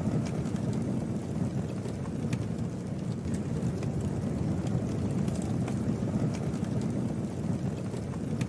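Campfire burning: a steady low rushing sound with faint, scattered crackles of the burning wood.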